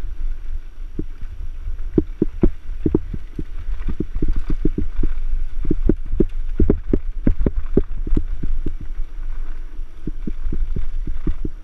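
Mountain bike riding over rough ground: irregular rattling knocks from the bike, coming several a second and thickest about halfway through, over a constant low rumble of wind on the microphone.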